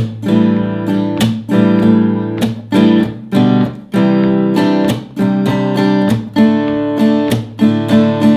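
Acoustic guitar strummed in the common campfire strumming pattern: chords ringing under sharp down- and upstrokes, with short breaks where the chord changes.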